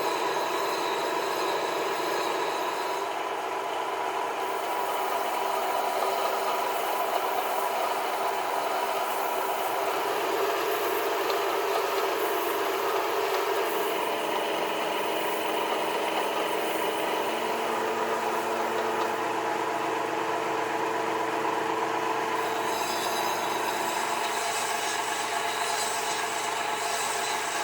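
A machine running steadily.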